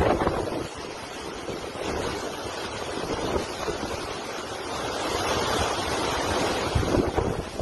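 Hurricane wind blowing over storm-driven water, with wind buffeting the microphone; the noise swells and eases in gusts.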